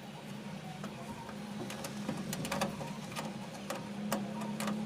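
Small electric motor humming steadily, with irregular sharp clicks and taps of metal parts over it.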